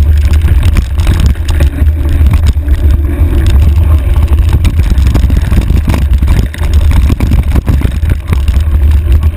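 Heavy wind rumble on a handlebar-mounted camera's microphone while riding a trail, with scattered knocks and rattles from the bars over rough ground.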